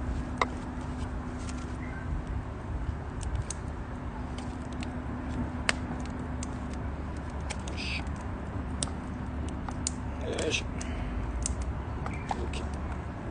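Wood fire crackling in a small nature stove: scattered sharp pops and snaps over a steady low rumble.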